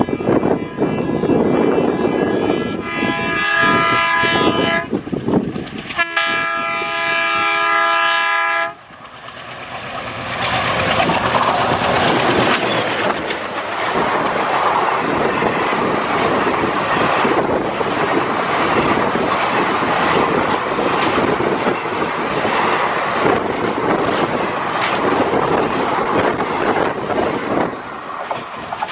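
An ALCO WDM3A diesel locomotive approaches at speed with its engine running and sounds its horn in two long blasts, about three and six seconds in. Its express coaches then rush past, wheels clattering over the rail joints in a loud, steady rush that eases off near the end as the train draws away.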